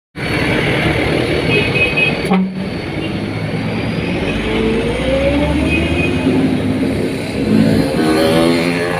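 Truck engine running under load with road and traffic noise, its pitch rising as it revs up about halfway through and again near the end.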